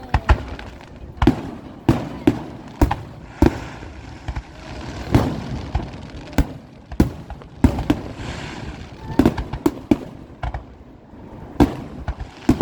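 Fireworks display: an irregular run of sharp bangs from bursting shells, often several a second, with rumbling and crackle between them.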